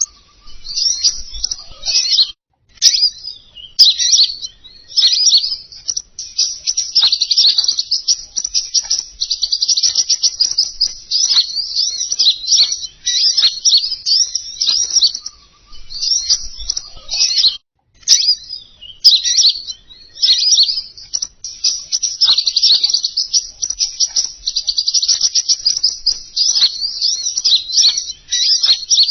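A recording of a small songbird singing a rapid, high-pitched chattering song in long, nearly unbroken phrases, played as a lure call to attract the same species. There are two brief pauses, one about two seconds in and one a little past halfway.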